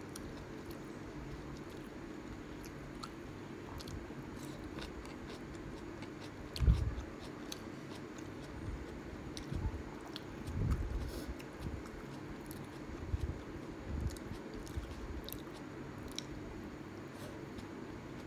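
Close-up chewing of kimchi ramen: crunchy kimchi and noodles bitten and chewed with wet mouth sounds. There are several low thumps, the strongest about a third of the way in, over a faint steady hum.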